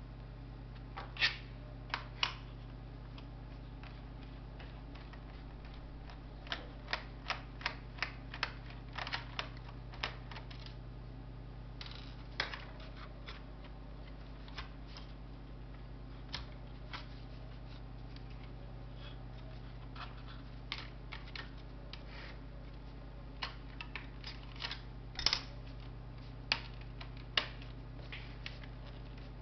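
Light, irregular clicks and taps of small plastic and metal laptop parts and tools being handled during disassembly, some in quick runs of several, over a steady low hum.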